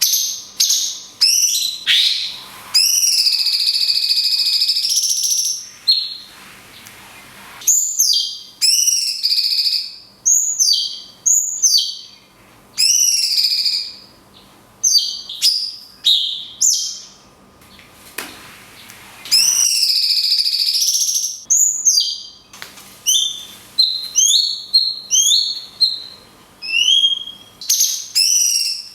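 Cucak cungkok singing: phrases of loud, clear whistled notes that slide up and down, with two long held notes of about three seconds each and short pauses between phrases.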